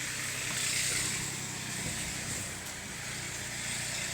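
Small farm tractor's engine running steadily as the tractor drives along under load.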